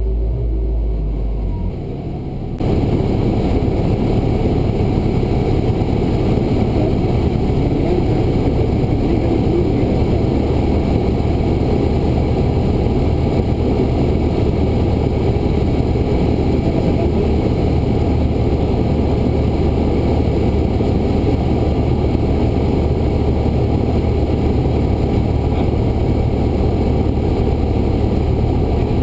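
Cessna 172's piston engine and propeller running steadily in flight, heard from inside the cabin with rushing air noise. About two and a half seconds in, the sound abruptly gets louder and fuller and stays that way.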